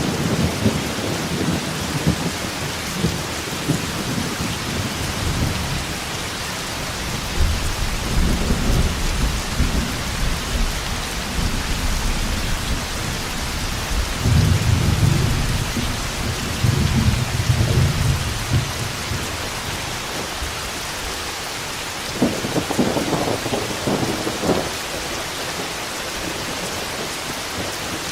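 Heavy steady rain with rolling thunder: low rumbles swell several times, and a sharper crack of thunder comes about two-thirds of the way through.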